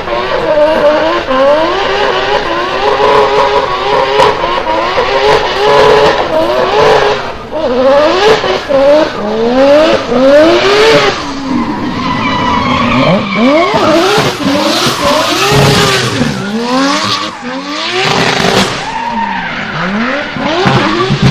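Drift car engine revved hard and repeatedly, its pitch sweeping up and down over and over, with tyres screeching and skidding through the slide.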